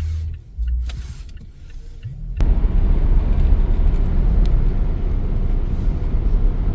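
Car driving, heard from inside: a quiet low engine hum that changes abruptly, about two and a half seconds in, to a louder steady rumble of engine and road noise.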